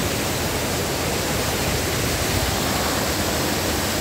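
Rushing water of a rocky mountain stream near a waterfall, a loud, steady roar of noise with no let-up.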